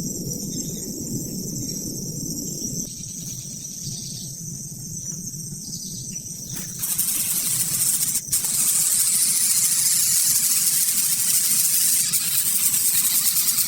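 Steady chirring of crickets or other insects, then about seven seconds in a louder, even hiss starts suddenly and takes over.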